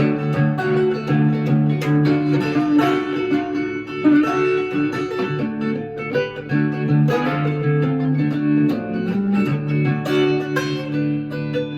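Blues guitar playing an instrumental break: picked single notes over steady, repeating low bass notes.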